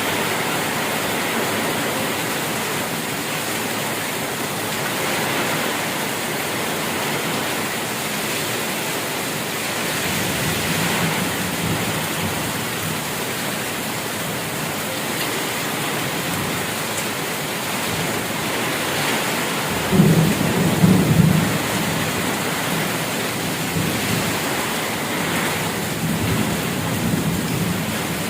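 Steady heavy rain falling, with thunder rumbling loudest about twenty seconds in and fainter rumbles after it.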